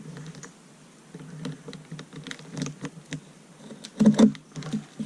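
Light irregular clicks and rustles of hands handling small parts and tubing, with a louder knock or bump about four seconds in.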